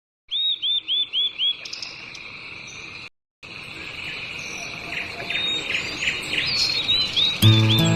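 Outdoor nature sound: a bird gives a quick series of five chirps over a steady, high insect trill. After a brief dropout, more bird chirps continue over the trill. Music begins near the end.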